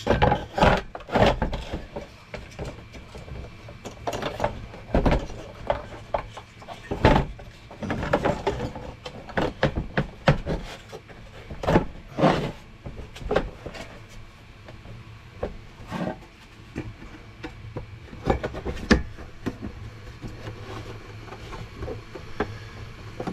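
Irregular clicks, knocks and rubbing as diesel heater parts are handled and fitted back together during reassembly, over a faint steady low hum.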